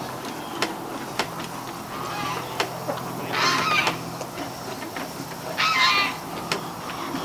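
Domestic poultry calling: a soft call about two seconds in, then two loud calls about three and a half and six seconds in, with scattered sharp clicks.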